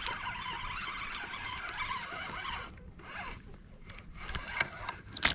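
Fishing reel being cranked while fighting a hooked largemouth bass, a steady zipper-like rasp that stops about halfway through, followed by scattered clicks and one sharp knock near the end.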